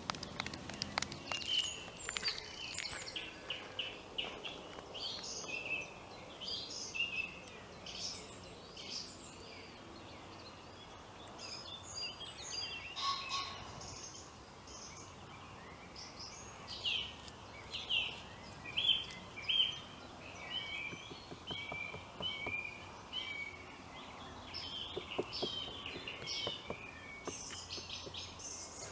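Small songbirds singing and calling, a string of short high chirps and trills, with a faint steady background hum.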